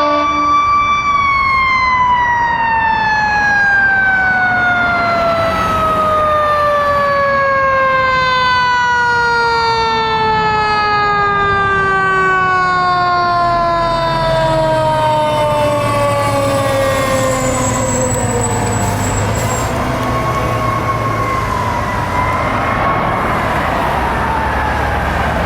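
Fire truck siren holding a high tone, then winding down in one long, slow fall in pitch as it coasts. In the second half a wailing siren rises and falls, over the growing rumble of a heavy diesel fire apparatus engine passing.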